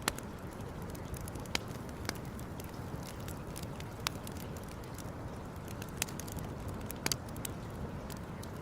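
Campfire crackling: scattered sharp pops at irregular intervals, about half a dozen louder ones, over a steady low rushing noise.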